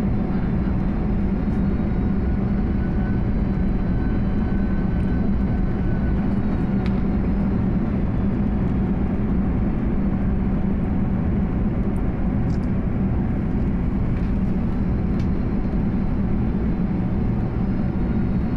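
Airliner cabin noise in flight: a steady, even rumble of engines and rushing air, with a faint constant hum.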